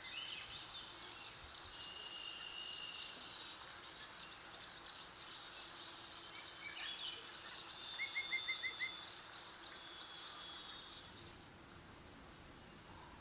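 Several birds singing: rapid series of high chirps, a few held whistled notes and a short trill, over a light outdoor hiss. The singing stops about eleven seconds in.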